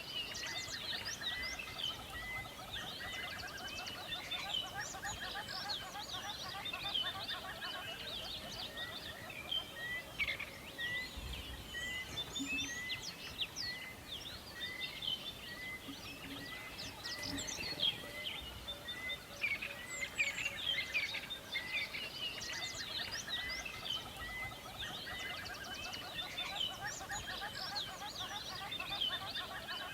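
Chorus of many songbirds chirping and trilling. Through roughly the first half, one bird repeats a short note steadily, a little more than once a second.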